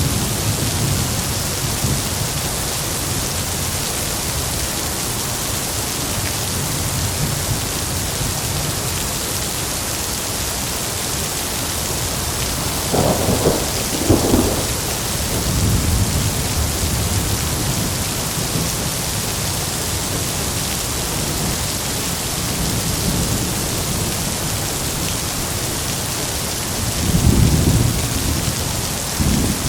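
Heavy rain falling steadily with rolling thunder rumbling low underneath; two louder claps of thunder break through, one about halfway through and another near the end.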